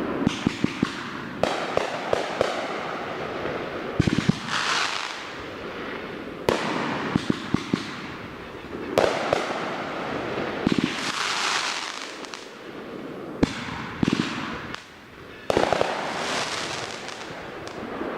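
500 gram fan cake firing in sequence: a sharp launch thump every two seconds or so, each shot followed by a burst and a trailing hiss of crackling and strobing effects.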